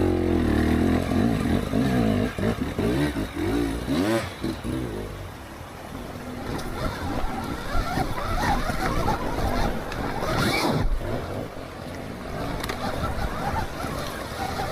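Stark VARG electric dirt bike's motor whining, rising and falling in pitch with the throttle, over tyre and chassis noise.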